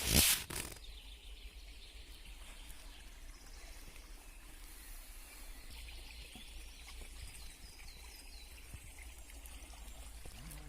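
Forest ambience: a steady low rush with faint bird chirps in the second half, after a loud brief rustling noise at the very start.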